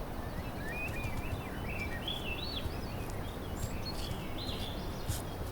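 A small songbird singing a string of short, wavering chirps over a steady low outdoor rumble of wind and ambient noise, with a few faint clicks.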